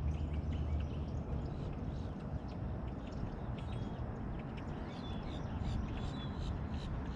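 Small birds chirping repeatedly, short high notes, over a steady low rumble.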